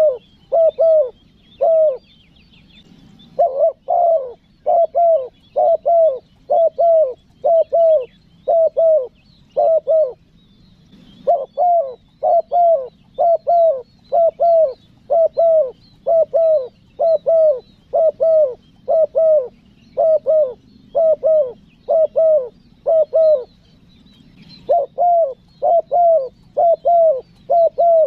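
Spotted dove (tekukur) cooing a fast, even series of short coos, about two a second, in long runs broken by three brief pauses. It is the dove's calling song, used to lure wild doves.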